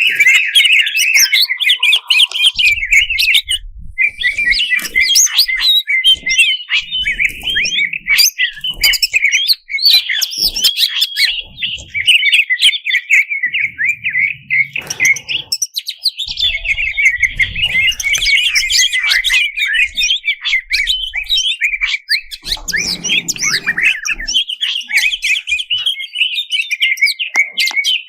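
Green leafbird (cucak ijo) singing a fast, continuous varied song: a rapid stream of chirps, trills and whistles, broken by short pauses about 4, 10 and 16 seconds in.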